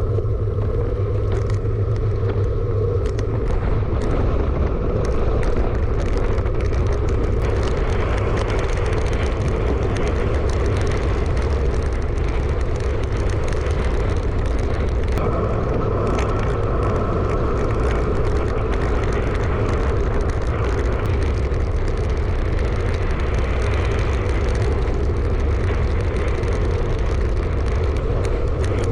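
Steady wind rumble on an action camera's microphone from riding a bicycle at speed, with road noise underneath.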